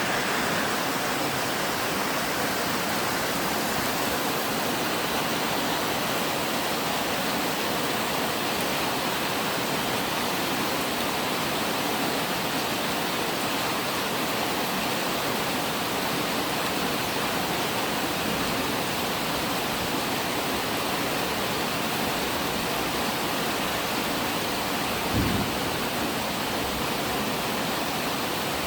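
Steady rain falling, an even hiss with no change in level. Near the end there is one brief low thump.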